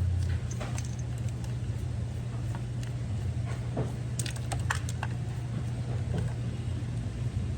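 Steady low electrical hum from the refrigerator's compressor circuit. A deeper hum cuts off just after the start, then a cluster of light clicks and taps comes around the middle. The replacement compressor has failed to keep running.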